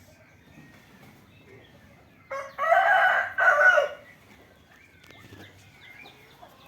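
A loud crowing call from a fowl, about one and a half seconds long: a short first note, then two longer drawn-out parts. Faint chirps of small birds are heard around it.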